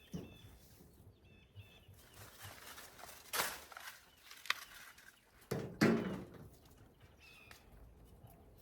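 Rustling and knocks of dry loofah gourds and vines being handled and picked, in a few short bursts, the loudest about three and a half seconds in and about six seconds in. Small birds chirp faintly.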